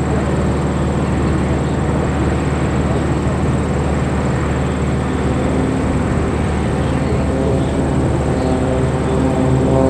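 Propeller engine of a Christen Eagle aerobatic biplane droning steadily, growing a little louder near the end as it comes closer.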